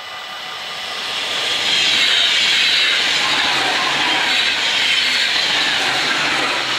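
NS ICMm (Koploper) electric intercity train passing over a level crossing at speed: a loud, steady rush of wheels on rail and air that builds to full loudness about two seconds in and holds as the carriages go by. The crossing's warning bells ring faintly under it at the start.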